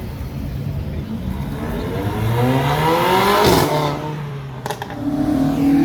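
A big Mercedes accelerating past. Its engine note climbs for about two seconds, peaks with a rush of noise as it goes by about three and a half seconds in, then drops away. Another car's engine keeps running at a steady low note, and a second higher engine note joins near the end.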